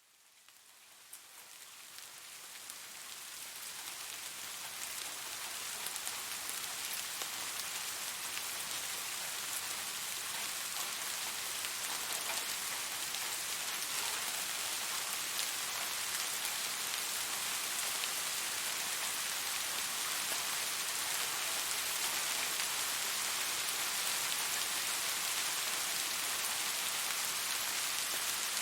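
Steady rain falling on a surface: a dense even patter with fine scattered drop ticks. It fades in from silence over the first few seconds, then holds level.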